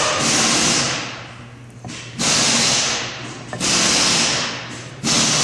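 Four loud hissing bursts about a second and a half apart, each starting sharply and fading away, over a low steady hum.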